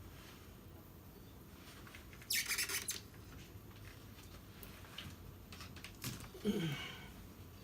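Hand-work noises: a short, loud rasping burst about two seconds in, then a brief squeak that rises and falls in pitch near the end.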